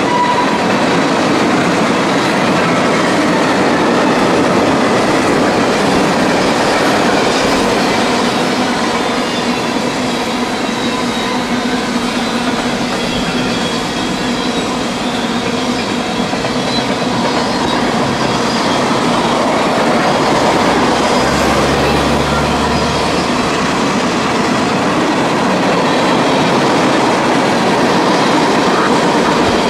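CSX freight train rolling past on the main line: a steady noise of car wheels on the rails, with a thin, steady high-pitched wheel squeal.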